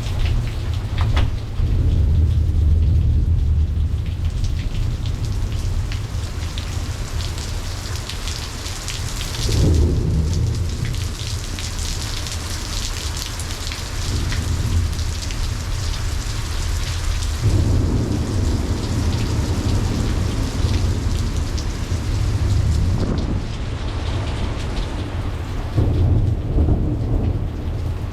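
Steady heavy rain in a thunderstorm, with thunder rumbling low almost throughout and swelling several times.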